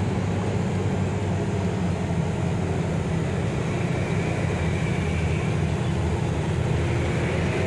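MAN truck's diesel engine running steadily, heard from inside the cab as a low, even drone.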